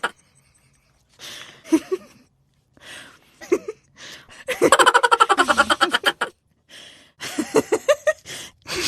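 Bursts of rapid, pulsed laughing or chattering vocalizing, loudest in one long run about halfway through, with shorter pitched calls before it and a quick string of rising calls near the end.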